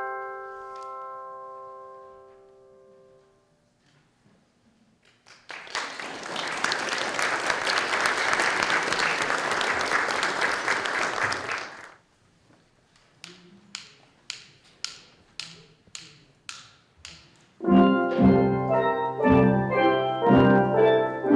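A handbell chord rings out and fades, followed by audience applause lasting about six seconds. Then about nine sharp stick clicks count in at roughly two a second, and a steel drum band starts playing a lively tune near the end.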